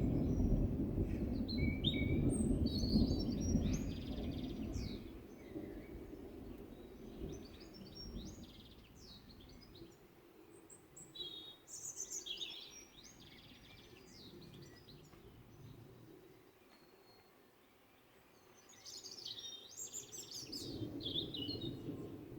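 Distant thunder rumbling and dying away over the first few seconds, while small birds chirp and call. A low rumble swells up again near the end.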